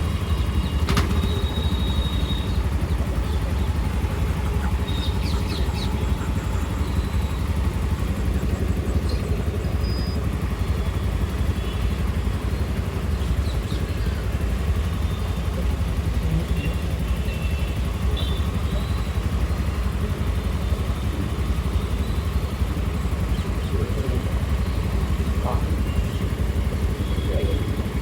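Steady wind and road rumble on the microphone while riding a Bajaj Chetak electric scooter in traffic, with no engine sound of its own. A few short, faint high beeps come and go.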